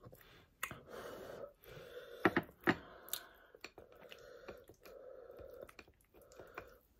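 Close-up mouth sounds of a person eating pounded yam with soup by hand: soft, wet chewing, with a few sharp clicks about two to three seconds in.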